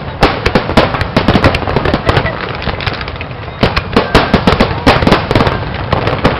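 Fireworks going off in a rapid, dense string of bangs and crackles. The bursts thin out briefly around the middle, then come thick and fast again from about three and a half seconds in.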